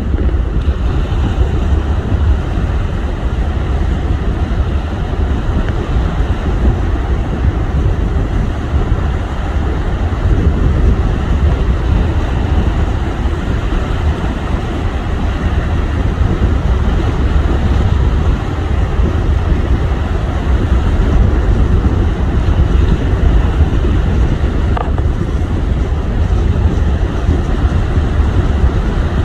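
Wind buffeting the microphone over the rush of heavy sea waves: a loud, steady rumbling noise.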